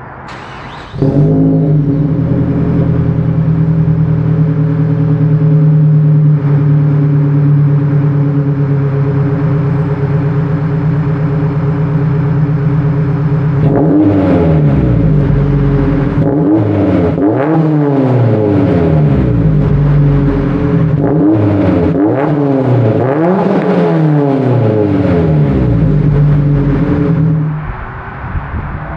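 Gen 1 Mazdaspeed 3's turbocharged four-cylinder, fitted with a BNR S5 big turbo, external wastegate and catless downpipe, running at a steady pitch for about twelve seconds, then revved up and back down over and over for the next dozen seconds. Near the end it drops off and starts to rise again.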